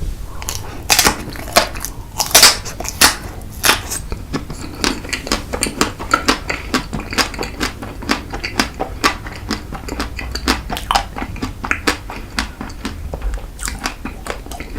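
Close-miked chewing of a crispy, crunchy ice cream dessert cake: a dense run of sharp crunches, loudest in the first few seconds.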